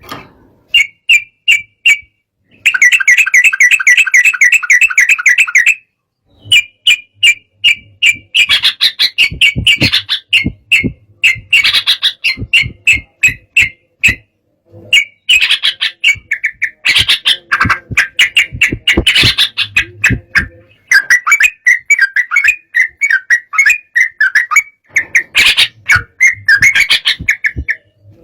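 Yellow-vented bulbul (trucukan) singing in an agitated state: loud, rapid runs of short chattering notes in bursts with brief pauses between them. This kind of song is used to provoke rival birds into singing.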